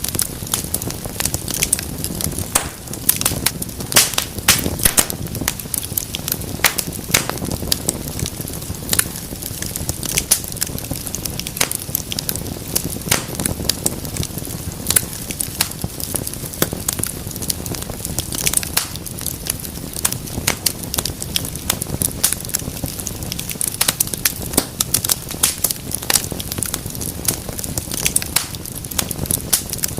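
Wood fire burning in a fireplace, with a steady low rumble of flames and frequent irregular sharp crackles and pops.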